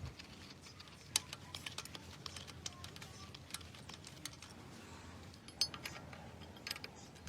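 Irregular light clicks and taps, a few sharper ones about a second in and near the middle, over a faint steady low hum.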